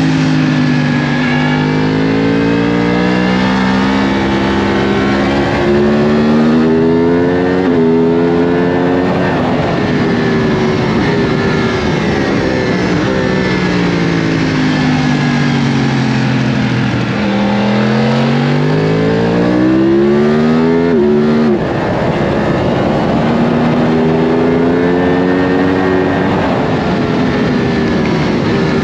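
Onboard sound of a Yamaha R1's inline-four engine at track pace, with a rush of wind. The revs climb hard and drop sharply at quick upshifts, about 8 s and 21 s in. In between come long falling stretches as the bike slows for corners.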